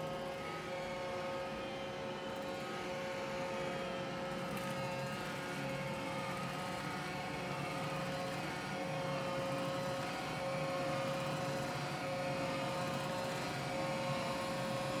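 Roomba j7+ robot vacuum running, a steady motor hum with a constant whine.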